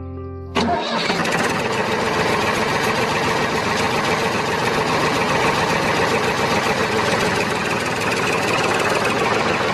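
A vehicle engine running steadily, cutting in suddenly about half a second in over a brief bit of music.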